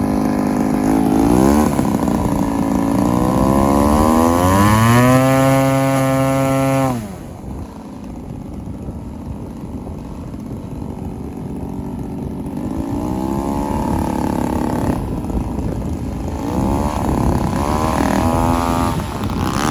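Radio-controlled model airplane's motor in flight, its pitch dipping, then climbing to a high steady note before dropping off sharply about seven seconds in. Later it climbs in pitch again in two shorter runs as the throttle comes back up.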